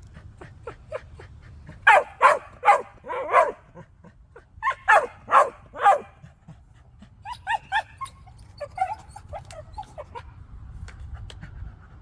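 Cocker spaniel barking in two loud runs of several quick barks, followed by softer yips.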